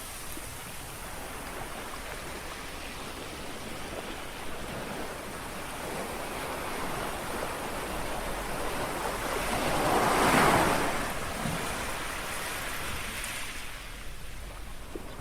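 Small sea waves lapping on a shore. The wash builds to one louder wave about ten seconds in and then eases off.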